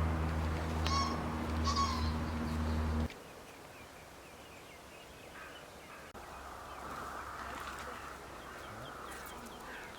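A steady low hum that cuts off suddenly about three seconds in, with two short bird calls over it. After that, quieter bird chirps continue.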